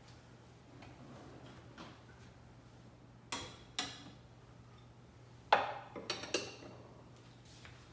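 Dishes clinking and knocking together as they are handled and put away: about five short, sharp clinks, two a little after three seconds in and a cluster around six seconds, the loudest of them about five and a half seconds in.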